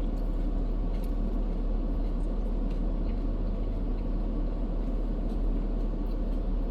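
Steady low rumble of an idling vehicle engine, with no change in pitch or level.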